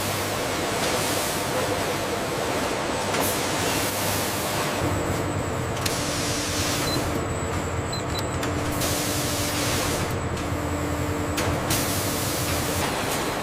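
Steady factory machinery noise: a constant hiss over a low hum, with a deeper drone and a humming tone coming in about five seconds in.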